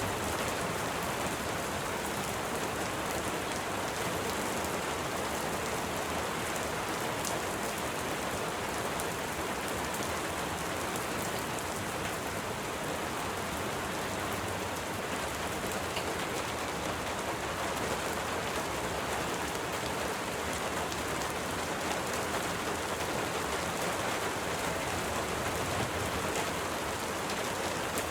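Steady rain: an even hiss with faint ticks of individual drops, unchanging throughout.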